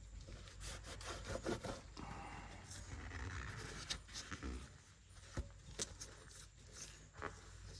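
Rubbing and scraping on the tops of a Farmall C's pistons and cylinder deck as carbon is cleaned off, with scattered light clicks.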